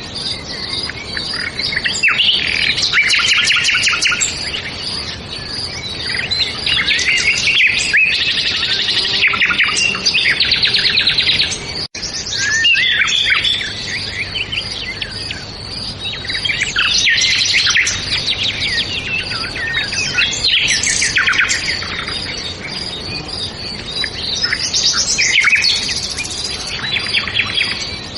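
Many songbirds chirping and singing at once, with overlapping calls and rapid trills that rise and fall in waves. The sound cuts out for an instant about twelve seconds in.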